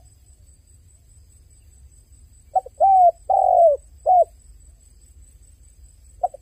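A dove cooing: a phrase of four coos about two and a half seconds in, the third the longest and falling in pitch at its end, with the next phrase beginning near the end.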